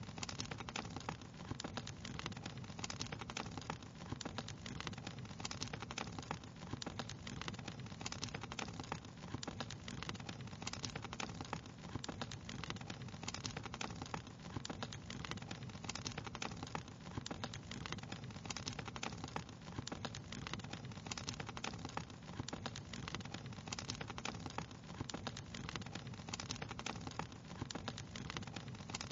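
Wood fire crackling steadily: many small pops and snaps, close together, over a low steady rush.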